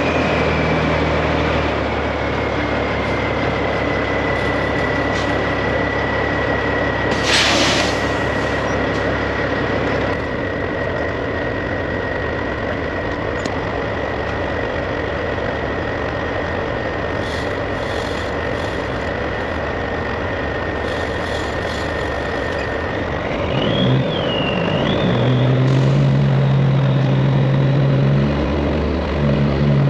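Straight-piped Peterbilt 389 semi truck running, with a high whine that slowly falls in pitch as the truck eases off. A short air hiss comes about seven seconds in. Near the end the engine pulls again and the whine rises.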